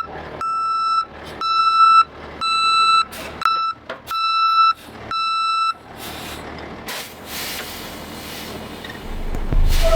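A vehicle's reversing alarm beeping, one high tone about once a second, stopping about six seconds in. Faint steady noise follows.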